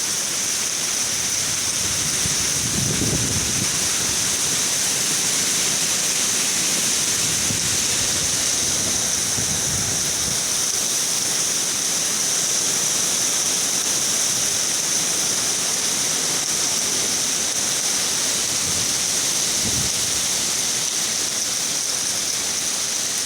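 Steady, heavy rain hissing, with strong wind gusting low a few times.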